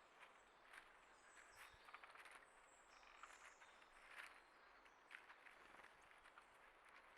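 Faint outdoor ambience: scattered soft taps and scratches, with a few faint high bird chirps about two to three seconds in.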